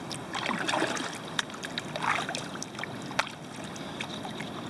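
Kayak paddle strokes: the blades dip and swish through the water every second or so, with water dripping and trickling off them and a few sharp ticks.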